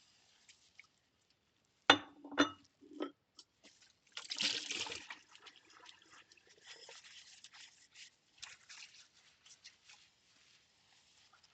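Ceramic bowls being hand-washed in a sink: two sharp clinks about two seconds in and a softer knock just after, then a second-long splash of water, followed by faint dripping and trickling.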